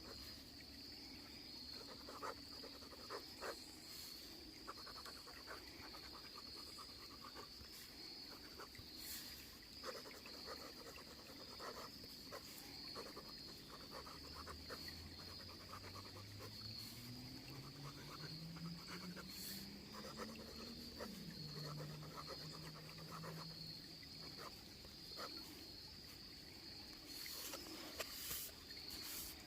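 Faint steady high insect chorus trilling in the woods, with scattered light clicks. Midway, a low drone rises slowly in pitch for several seconds, then drops and holds briefly before fading.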